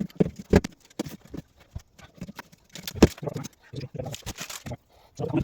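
Irregular knocks, taps and clicks of hands working inside a Land Rover Defender's rear body while sound-deadening material is fitted, with a short rustle of the material about four seconds in.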